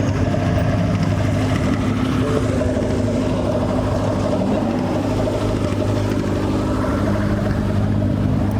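Car engines running steadily, a continuous low, even rumble with no revving.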